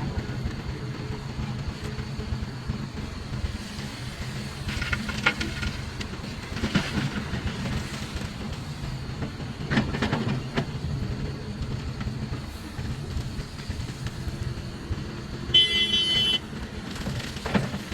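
Large Hitachi mining excavator's diesel engine running steadily under load, with several dull knocks and rumbles of rock and dirt. Near the end a horn sounds once, for about a second.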